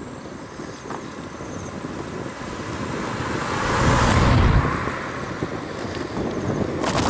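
A motor vehicle passing on the road, its noise building to a peak about four seconds in and then fading away, over a steady background of road noise.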